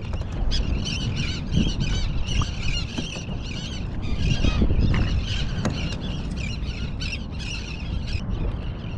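Birds calling in a rapid, continuous series of short squeaky chirps over a steady low rumble.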